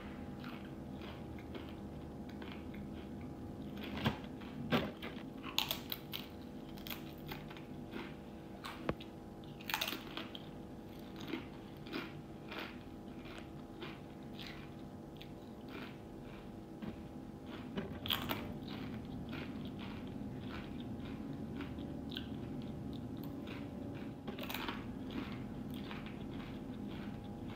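Someone eating tortilla chips (Doritos): irregular crunching and chewing, with the sharpest crunches about four to five seconds in, near ten seconds and near eighteen seconds, over a steady low hum.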